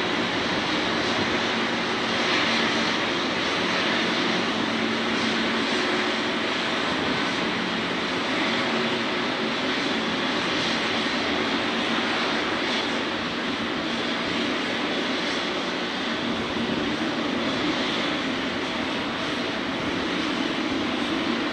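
Boeing 777-300ER's GE90 jet engines running steadily at low power during pushback, a continuous rushing whine with a few steady hum tones underneath.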